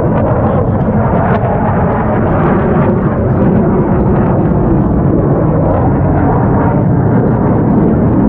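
Loud, steady roar of military jet engines as a jet flies its display overhead.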